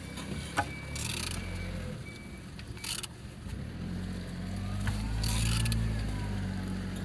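Removed engine being turned over by hand, with a few short mechanical clicks and several brief rasping strokes, over a low steady hum that swells in the middle.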